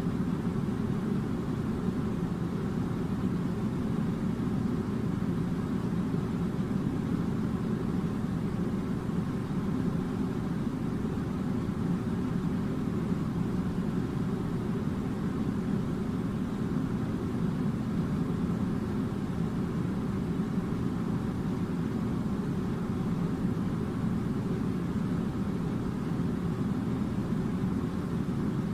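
Air conditioner running with a steady low rumbling hum and a faint constant tone, unchanging throughout.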